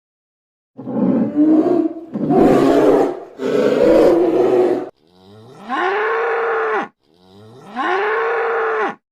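Animal calls: three harsh, rough roaring bursts, followed by two drawn-out calls that each rise in pitch and then hold steady before stopping abruptly.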